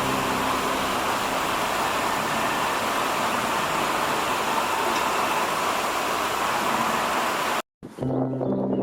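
Steady rushing of water, loud and even, cutting off suddenly near the end, after which piano music comes back in.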